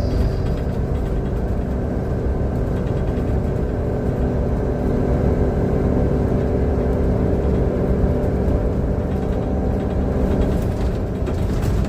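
Engine of Transperth bus TP1422 running steadily, a dense low rumble with a few steady humming tones over it. The uploader calls it a bad engine sound.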